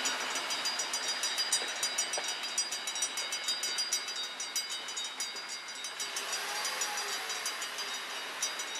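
Steam train rolling past a railway level crossing, with a fast, even high ringing or clicking over the rail noise.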